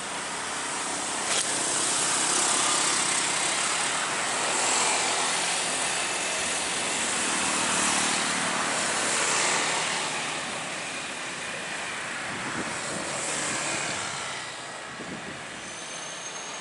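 A train passing close by: a steady rush of wheel-on-rail noise that swells and fades over several seconds, with a faint high squeal near the end.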